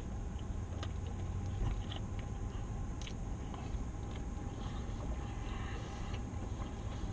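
A person chewing a big mouthful of burger, with faint scattered mouth clicks, over a low steady rumble inside a car.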